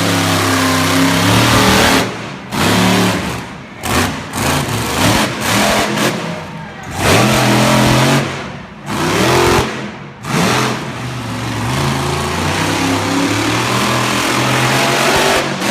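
Monster truck engines revving hard in repeated throttle bursts, each surge cutting back sharply before the next, with several sharp drop-offs.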